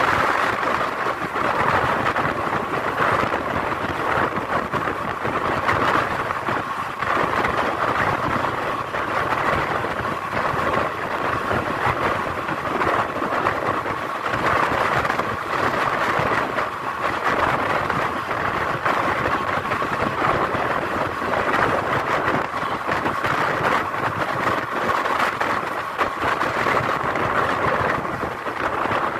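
Moving Indian Railways passenger coach heard from its open window: steady running noise of the wheels on the track.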